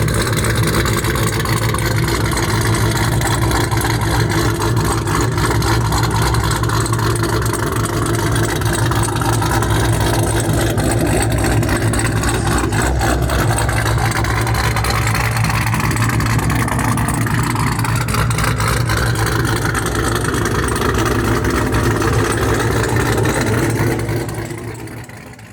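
Camaro SS V8 with a BTR Stage 2 camshaft idling through long-tube headers and a straight-piped exhaust with no cats or mufflers, a steady loud exhaust note that fades out near the end.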